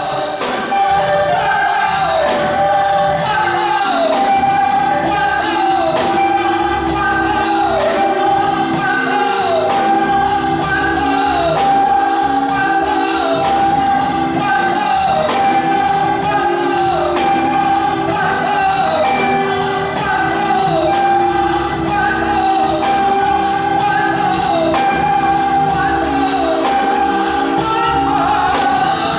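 Gospel music: voices singing held, sliding notes over a steady beat.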